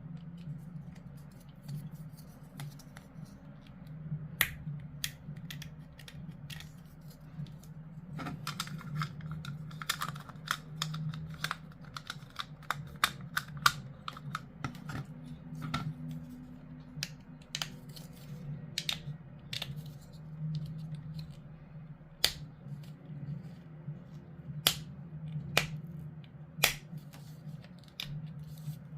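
Hard plastic kit parts being handled and snapped together: a run of small clicks and snips, with a few sharper, louder clicks in the second half, over a steady low hum.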